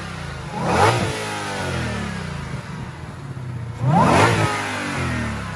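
2020 Shelby GT500's supercharged 5.2-liter cross-plane V8, heard through the open hood, revved twice in neutral. Each blip climbs and drops back to idle, about half a second in and again near four seconds. The supercharger whine is only a little bit quiet, since the engine is unloaded.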